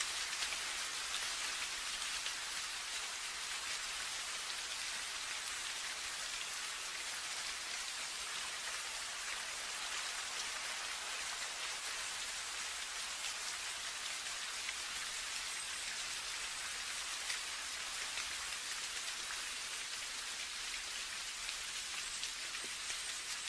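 Steady rain, a dense even patter of drops with no pauses.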